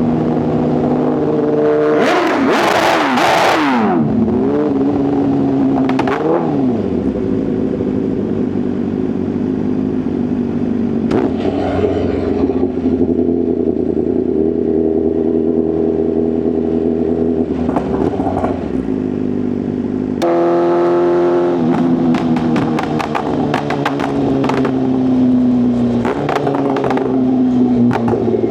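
Inline-four superbike engine and exhaust at highway speed: a hard throttle burst about two seconds in that drops away as the revs fall, then steady cruising. About twenty seconds in the revs jump, then slowly fall off with a run of exhaust pops and crackles on the overrun.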